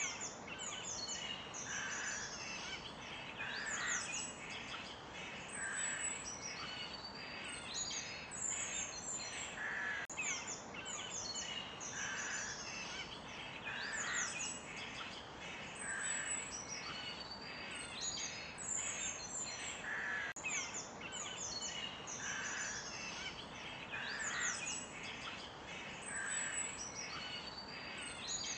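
Forest birdsong: several birds chirping and whistling over a steady faint hiss, with the same stretch of calls coming round again about every ten seconds.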